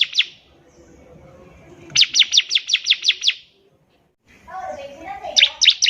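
Bar-winged prinia (ciblek) singing in active full song. Its high, rapid trills are made of quick down-slurred notes, about eight a second, separated by a lower twittering warble.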